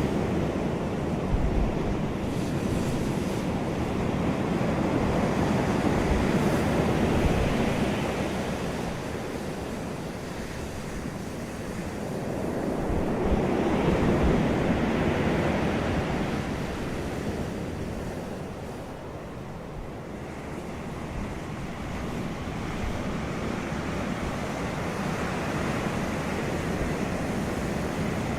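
Wind blowing in slow gusts, rising and falling every several seconds, with low buffeting on the microphone.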